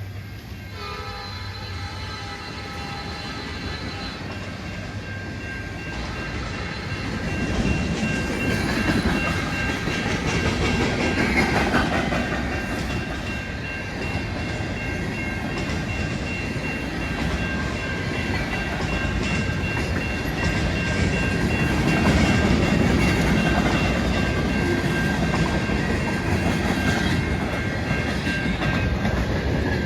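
A train horn sounding its chord for the first few seconds, then a train rolling past with the clickety-clack of its wheels over the rail joints, getting louder as it nears. A couple of steady high tones ring on over the rolling noise.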